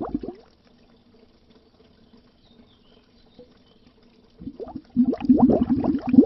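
Air bubbles bubbling underwater, many quick rising blips. A short burst at the start, then about four seconds with almost nothing but a faint low hum, then dense bubbling starts up again in the last two seconds.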